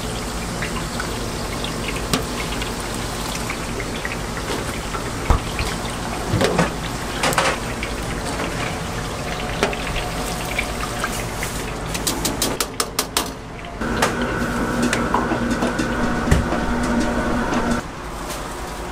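Doughnut dough frying in a vat of hot oil, a steady sizzling hiss with scattered knocks and clicks. About 14 s in, a steady hum starts and cuts off about four seconds later.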